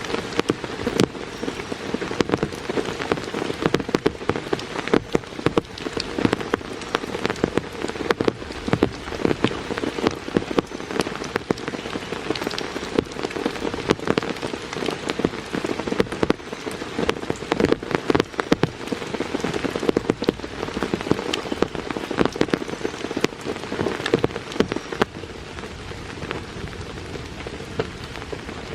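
Steady heavy rain falling, with many separate drop hits standing out sharply. It eases a little near the end.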